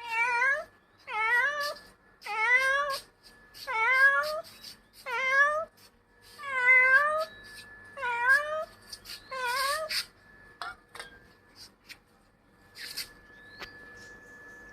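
A street cat meowing repeatedly, about eight meows in a row, each dipping and then rising in pitch, before falling quiet about ten seconds in.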